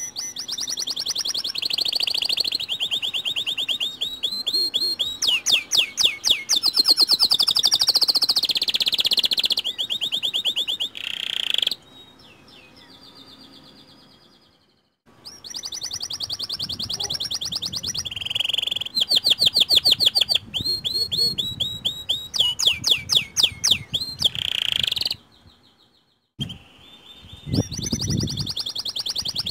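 Domestic canary singing long, rapid trills of fast repeated high notes, phrase after phrase. The song drops to a faint lull for a few seconds about halfway through and breaks off briefly near the end.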